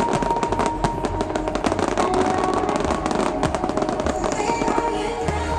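Fireworks popping and crackling, many quick sharp cracks close together, over loud electronic dance music with held synth notes and a deep bass.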